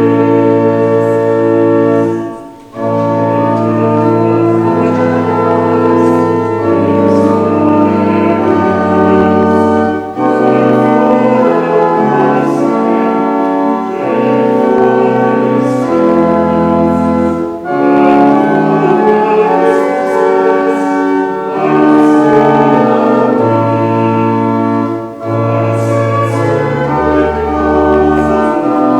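Church organ playing a slow hymn tune in sustained chords over deep pedal notes, with brief breaks between phrases.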